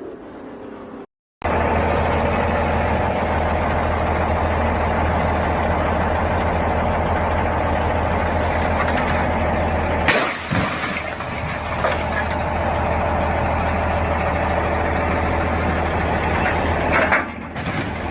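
A large vehicle engine idling steadily with a constant low hum, with a short sharp hiss about ten seconds in and another near the end.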